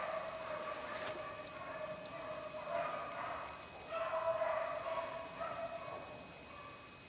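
A pack of rabbit hounds baying on a running rabbit's trail: long, drawn-out, overlapping bays that fade near the end.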